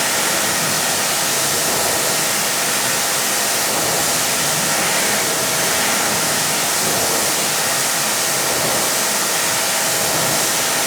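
Kranzle HD7 pressure washer spraying through a green-tip nozzle, rinsing snow foam and dirt off a car panel: a loud, steady hiss of water with a faint hum of the pump underneath.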